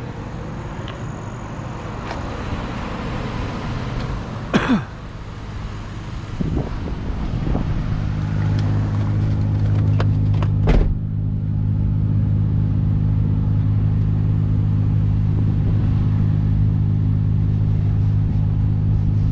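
A car engine running steadily, a low even hum that sets in about eight seconds in. Before it there is rustling and a couple of sharp knocks, and there is another knock a little after the engine note settles.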